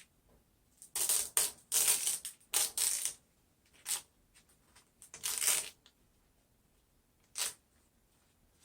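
Contact paper and vinyl backing crinkling and rustling as they are handled and rubbed, in several short bursts with pauses between.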